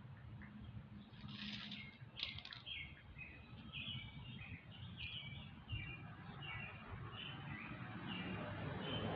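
A bird chirping faintly in short, quickly repeated high notes, over a faint low background rumble.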